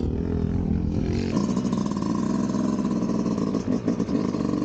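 Yamaha YZ250 two-stroke single-cylinder motocross bike engine running under throttle, its pitch wavering up and down as the rider works the throttle.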